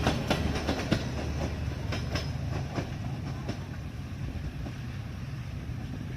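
Passenger train rolling on the rails: a low rumble with irregular clicks of wheels over rail joints, slowly growing quieter.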